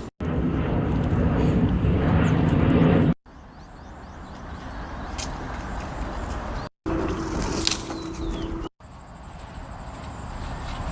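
Outdoor ambient recordings spliced together, each clip cut off abruptly: mostly a steady low rumbling noise, loudest in the first few seconds, with a few faint high chirps.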